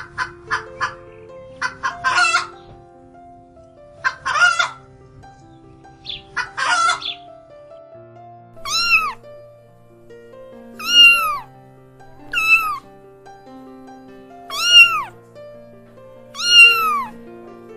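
A domestic hen clucking in short, rough calls for the first seven seconds, then a cat meowing five times, about every two seconds, each meow rising then falling in pitch, over soft background music.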